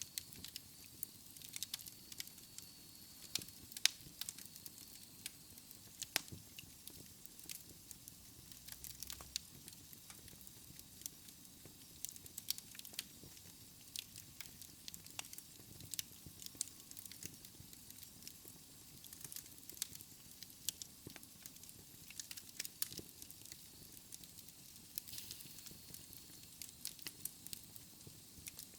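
Wood fire crackling in a fireplace: irregular sharp pops and snaps, several a second, over a soft steady hiss of the flames.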